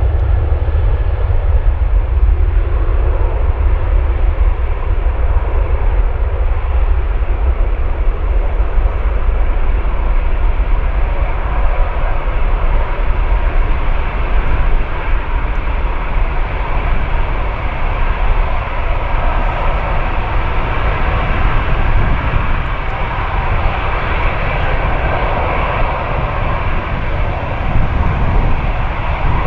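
Jet airliner engines running, a steady deep rumble with a rushing noise that grows somewhat stronger in the second half.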